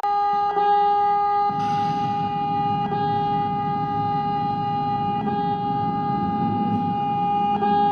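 A horn sounding one long, steady note. A low rumble joins it about a second and a half in, with a brief hiss at about the same moment.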